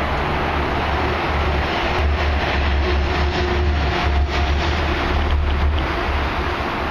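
A train running past on the tracks below, with a faint steady hum and some clicking in the middle seconds. Wind buffets the microphone throughout.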